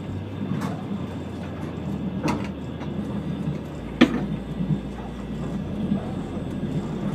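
Steady rumble inside a moving train carriage, with three sharp knocks, the loudest about four seconds in.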